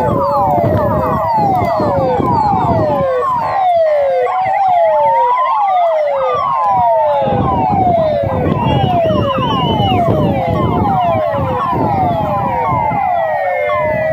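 Several fire-truck sirens sounding at once, their quick falling sweeps overlapping and out of step with each other, with one slower rising and falling wail near the middle.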